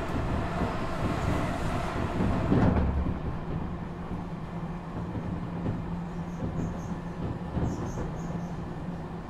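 Tokyu 5000 series electric train running, heard from inside the carriage: a steady rumble of wheels on the rails that swells louder about two and a half seconds in, then settles into a steady low hum with a few faint high squeaks near the end.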